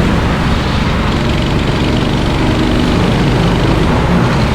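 Racing kart engines running steadily on the track.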